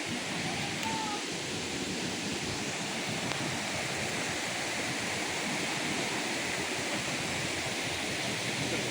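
River water rushing steadily, a continuous even hiss like a small cascade or fast stream.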